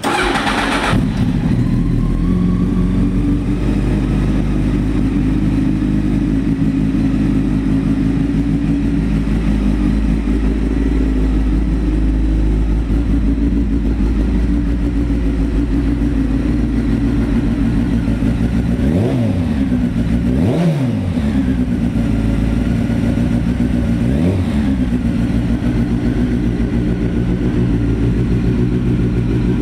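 1998 Honda CBR900RR's inline-four engine with a Muzzy aftermarket exhaust starting at once and settling into a steady idle. About two-thirds of the way through, the throttle is blipped three times, each rev rising and falling quickly. The bike starts and runs very well.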